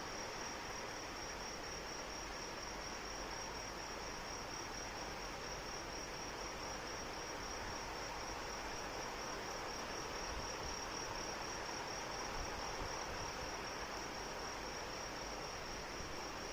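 Steady rain with an insect trilling continuously over it: one high, evenly pulsing note that holds the same pitch throughout.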